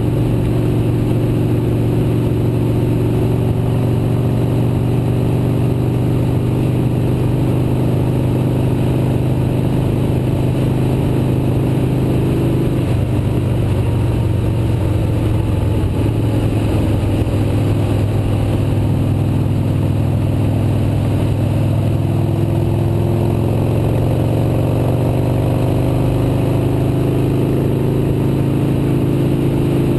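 Motorcycle engine running steadily under way. About halfway through, its higher tones drop away as the throttle eases. Later they come back, rising a little.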